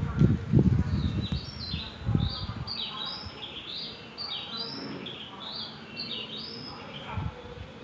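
Oriental (Indian) magpie-robin singing: a run of short, clear whistled notes, some sliding up or down, repeated for several seconds. Low rumbling thumps in the first two seconds are louder than the song.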